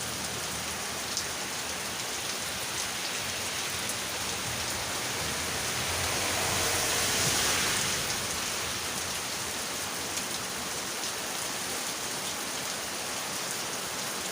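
Heavy tropical downpour hissing steadily on a road and nearby surfaces, with a few sharp drop ticks. It swells louder for a couple of seconds just past the middle.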